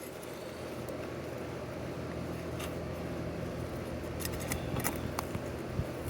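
Asphalt roof shingle tabs being pried up from their seal, with a few short scraping, crackling clicks as the brittle shingle tears, over a steady low rumble.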